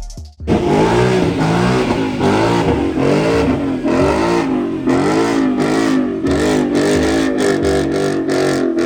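Car engine revving hard again and again, its pitch climbing and dropping in quick waves, with a hiss over it.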